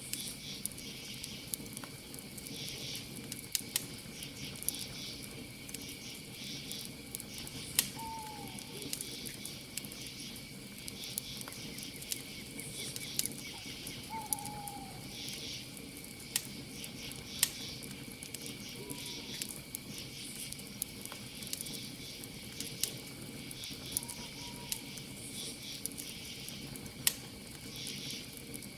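Campfire crackling, with sharp pops every few seconds, over a steady high cricket trill and rhythmic insect chirping. A short falling call sounds about every five seconds.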